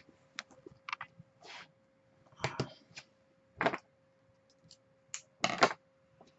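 Trading card packaging and cards being handled, with scattered light clicks and short crinkling rustles. A few louder rustles fall about two and a half, three and a half and five and a half seconds in.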